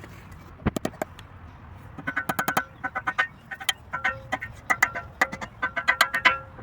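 Hammer rapidly tapping on the steel of a shovel, metal-on-metal strikes in quick bursts, each ringing at the same few pitches. Two single strikes come just under a second in, then fast runs of taps through the rest.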